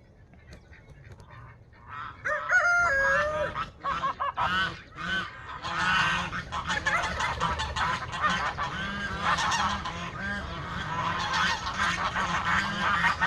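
A flock of domestic geese honking. The first two seconds are quiet, then many overlapping calls break out about two seconds in and keep going.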